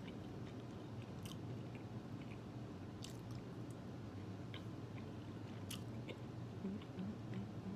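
A person chewing a mouthful of boiled meat with the mouth closed, with scattered faint wet clicks from the mouth.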